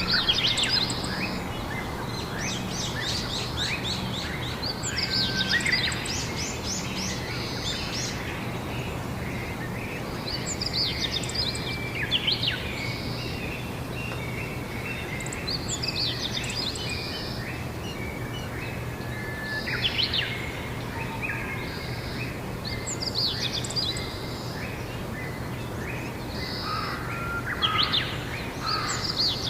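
Songbirds singing outdoors: a quick trilled phrase repeats about every five seconds, with other chirps between. A steady low hum and hiss run underneath.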